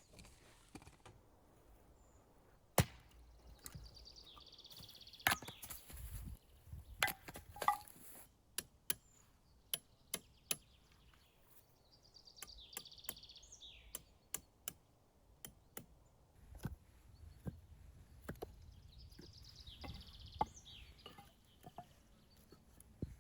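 Sharp, irregular chopping knocks, about twenty of them, most closely spaced early in the middle stretch. Between them, a bird trills three times in the trees.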